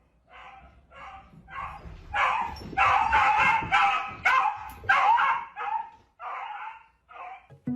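A dog barking over and over, a steady run of short barks about two a second, loudest through the middle few seconds.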